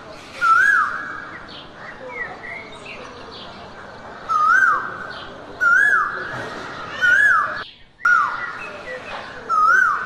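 Jungle ambience: a bird's whistled call repeated five times, each a quick rise and fall in pitch ending in a steady note held for about half a second, over a constant bed of faint chirps. The sound cuts out for a moment about two seconds before the end.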